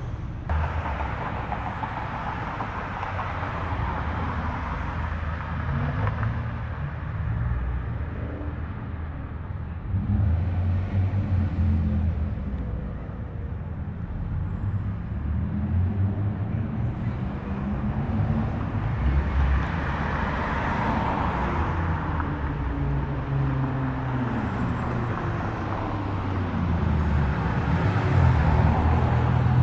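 Car engines and exhausts running as cars drive slowly past, their engine pitch rising and falling with light throttle. A louder, brighter pass comes about twenty seconds in, and the sound swells again near the end.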